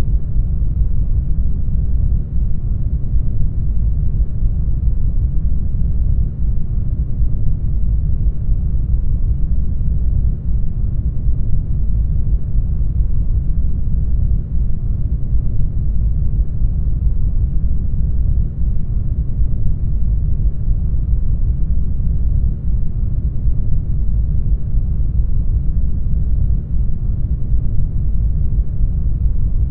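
Brown noise: a steady, deep hiss, strongest in the lows and fading toward the highs, with no changes.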